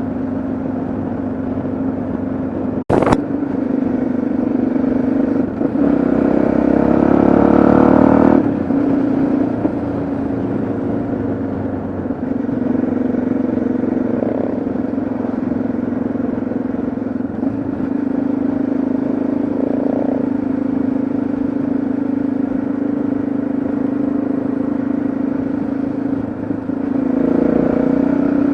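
Yamaha XT660Z Ténéré's single-cylinder engine running steadily on the road. It gets louder and works harder for about two seconds starting around six seconds in, with a sharp click about three seconds in.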